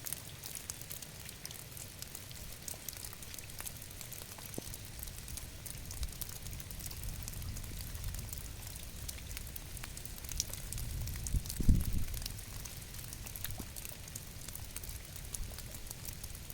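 Rain falling steadily, a hiss full of small drop ticks over a low rumble. About eleven seconds in, a short, stronger low rumble swells and fades.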